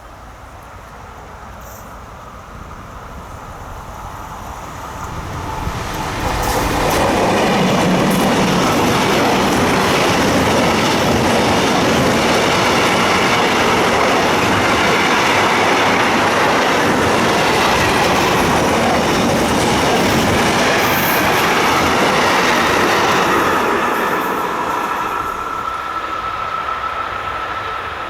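A train passing close by: its rumble builds over the first few seconds, holds loud and steady from about seven seconds in, then fades away from about twenty-four seconds.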